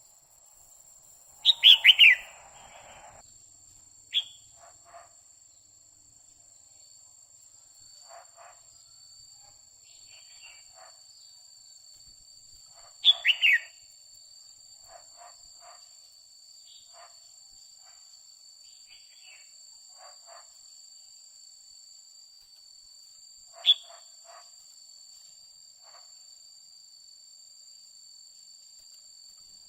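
Female red-whiskered bulbul giving its 'quých kiu' call, which is used to stir up males. It comes in short groups of loud, falling whistled notes: about three a couple of seconds in, three more midway, and a single one later, with soft chips in between. A steady high-pitched buzz runs underneath.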